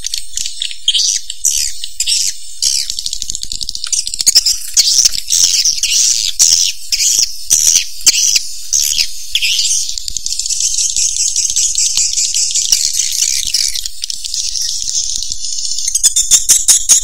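Swiftlet calls played as a lure sound: dense, high, rapid chirping twitters that settle into a steadier buzzy trill. Near the end they break into fast, evenly spaced clicking pulses.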